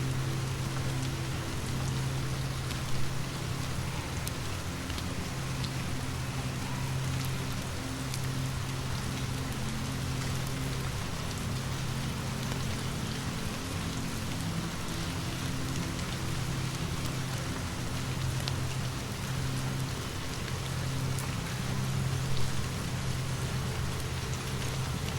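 Steady rain falling, with a low hum underneath and scattered small drop clicks; two brief louder cracks stand out, one about three seconds in and one near the end.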